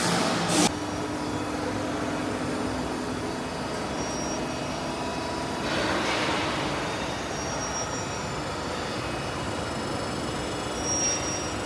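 Steady industrial machine noise, with a short loud clunk about half a second in and swells in level around six and eleven seconds.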